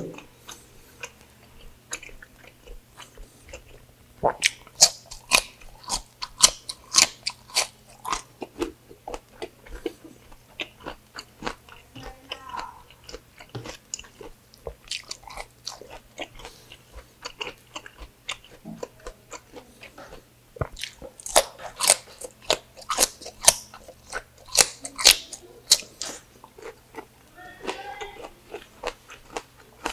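Close-miked chewing of crunchy raw cucumber: runs of wet crunches and mouth smacks, densest in two spells about four and twenty-one seconds in.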